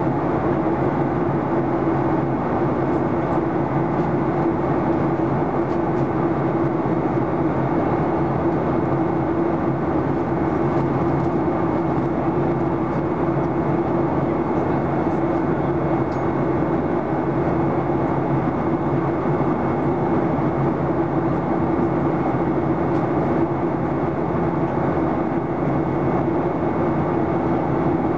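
Steady in-flight cabin noise of a Boeing 737-800, heard from inside the cabin: the drone of its CFM56-7B turbofans mixed with airflow rush, with a steady low hum.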